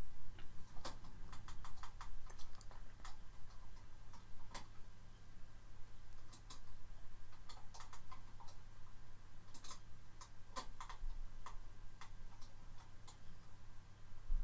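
Faint, irregularly spaced clicks and ticks over a steady low electrical hum.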